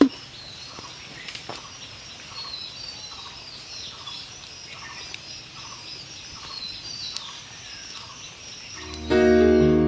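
Small birds chirping over and over, short high calls, with a sharp click at the very start. Keyboard music comes in loudly near the end.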